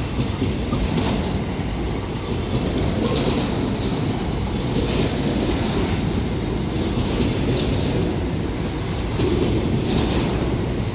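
Freight train wagons rolling past with a steady rumble, the wheels clacking over rail joints in repeated clusters.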